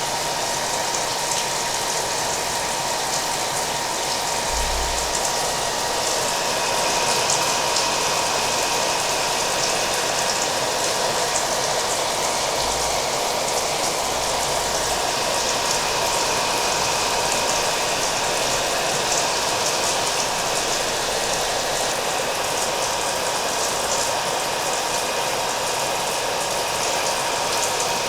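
Hair dryer running steadily, blended with the sound of rain: an even rushing noise with a thin steady whine, unchanging throughout.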